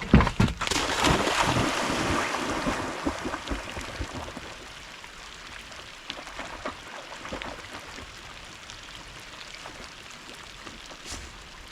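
A sharp knock, then a few seconds of splashing in water that fades into a steady wash of wind and rain.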